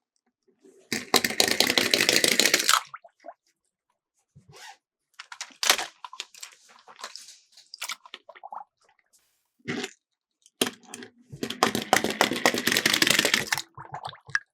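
Miniature toy cars rattling as they roll down a plastic track slope, in two runs of about two seconds each: one about a second in and one near the end. Scattered single clicks and knocks come between the runs.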